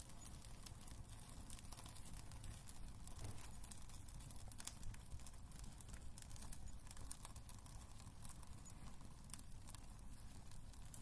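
Wood fire crackling in a fireplace: scattered, irregular sharp pops and snaps over a low, steady rumble of the burning logs.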